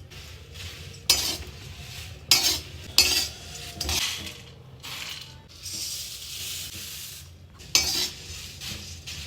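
Metal spoon stirring in a cooking pot, clanking sharply against it about five times, with a dry rustle between the clanks.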